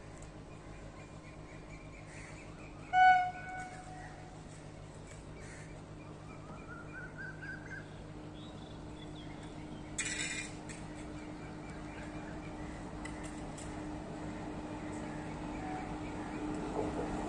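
Approaching train hauled by a WAP4 electric locomotive, heard from a distance as a steady hum that grows gradually louder, over birds calling. One loud, short call stands out about three seconds in, and a brief noisy burst comes about ten seconds in.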